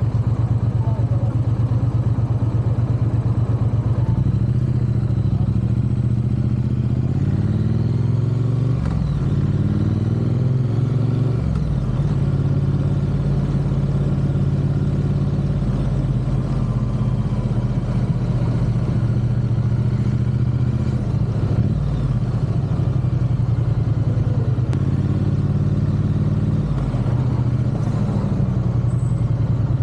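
Triumph parallel-twin motorcycle engine running under way, a steady low drone that rises in pitch as the bike accelerates about a third of the way in, then drops back, with smaller rises and dips in revs later on.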